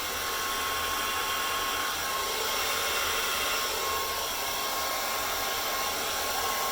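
Handheld hairdryer running steadily, blowing across wet poured acrylic paint, with a thin steady whine over its rushing air.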